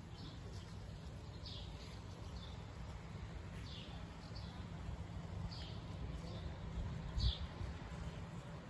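Birds chirping: short, high, falling calls about once a second, over a steady low rumble, with a low thump about seven seconds in.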